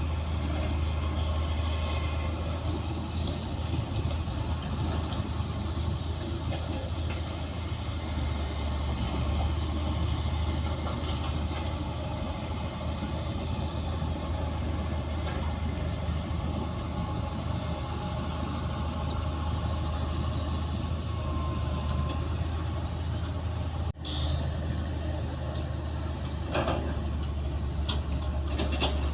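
Komatsu D60P bulldozer's diesel engine running steadily with a deep low rumble. Near the end the sound drops out for an instant, then a few short metallic clanks follow.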